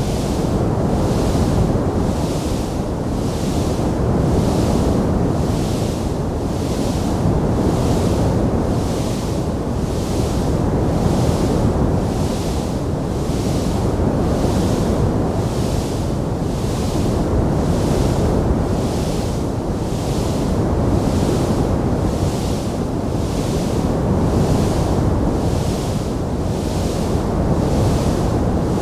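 Wood fire burning in a fireplace: a steady, dense rushing noise, with a fainter hiss above it that swells about once a second.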